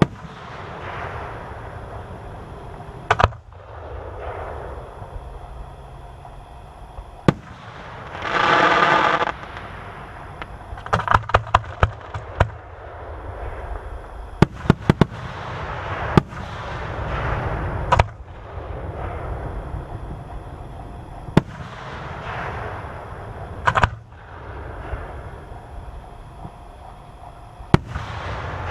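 Fireworks display: single sharp bangs of aerial shells bursting every few seconds, each trailing off in an echoing rumble. About eight seconds in comes a loud hiss lasting over a second, and soon after a quick string of crackling reports.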